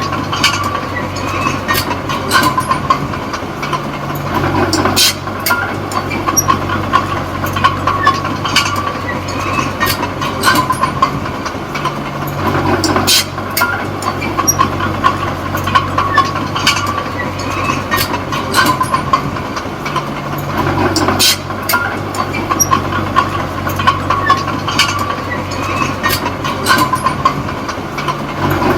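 Small Komatsu D20P crawler bulldozer at work: its diesel engine runs steadily under the rattle and clank of steel tracks. The engine note shifts in a regular cycle about every eight seconds.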